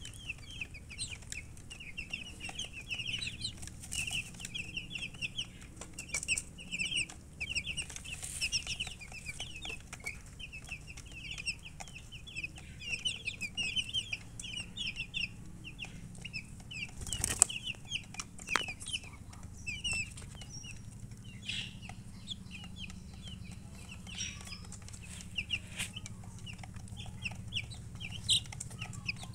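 Newly hatched chicken chicks peeping nonstop, a dense flurry of short high chirps, over a steady low hum, with one sharp knock about seventeen seconds in.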